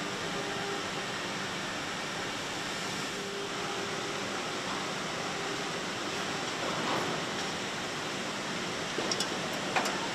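Steady factory-floor machinery noise with faint low hums, and a few sharp clicks near the end.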